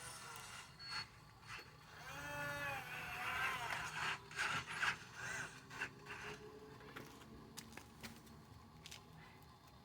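Small electric motors and gearing of a radio-controlled truck whirring, a whine rising and falling in pitch about two to three seconds in, followed by scattered clicks and ticks.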